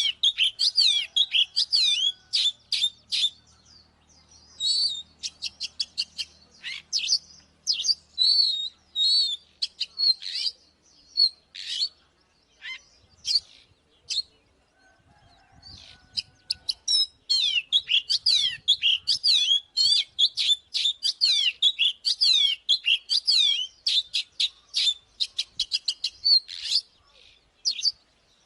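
Oriental magpie-robin singing: a fast run of varied whistles, warbles and sharp clicking notes. The song breaks off for about four seconds around the middle, then resumes.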